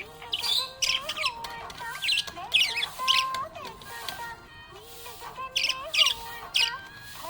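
Budgerigar chirping in quick, high warbling bursts, repeated every second or so, over background music with a gliding melody.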